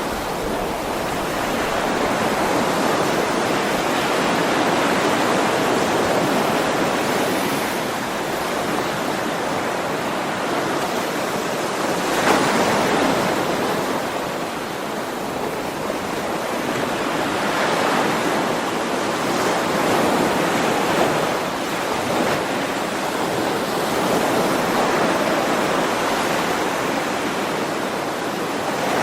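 Ocean waves washing ashore in a continuous rush, with gentle swells every few seconds.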